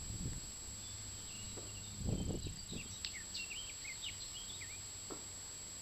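Faint outdoor birdsong: a run of short chirps and slurred whistles about halfway through. A low rumble about two seconds in, from wind or handling on the camcorder's microphone, is the loudest part.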